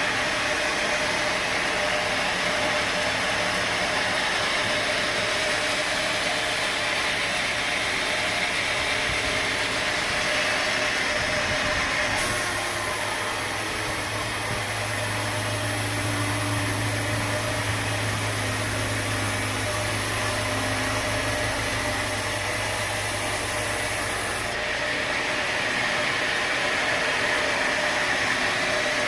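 Sawmill machinery running steadily with a continuous engine-like drone. The sound changes abruptly about twelve seconds in, when a low hum comes in, and switches back just before the last five seconds.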